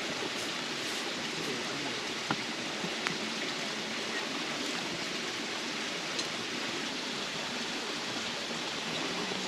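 Small campfire of mini firewood burning: a few faint sharp crackles, about two and a half seconds, three seconds and six seconds in, over a steady even rushing hiss.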